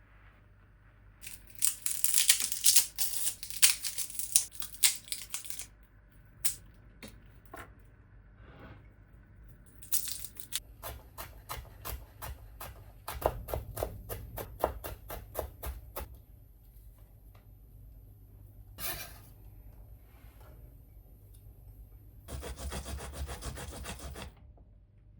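Rubbing and scraping, then a run of quick, even knocks, about four or five a second, lasting several seconds, then more short scrapes.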